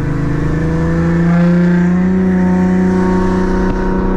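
Supercharged Audi A6 3.0 V6 engine heard from inside the cabin, pulling at light throttle in second gear, its note steady and rising slowly in pitch as the revs build.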